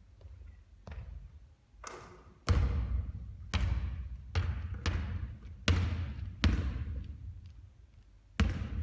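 Basketballs bouncing on a court during three-point shooting practice: about nine heavy thuds at uneven intervals, each trailing off in echo.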